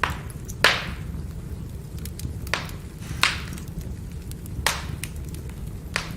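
Firewood burning: the wood crackles, with about six sharp pops, the loudest about half a second in, and smaller ticks between them over a steady low rumble of the fire.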